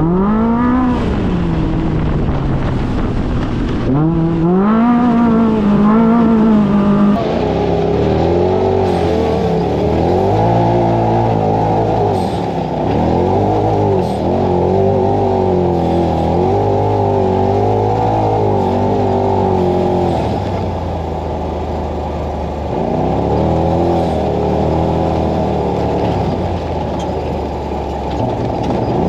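Side-by-side UTV engine revving up and down over and over while driving a trail, its pitch repeatedly climbing and dropping.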